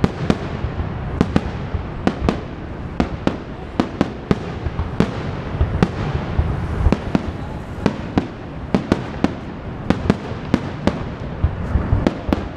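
Fireworks display: rapid, irregular cracks and bangs of shells bursting, several a second, over a continuous rumble of distant explosions.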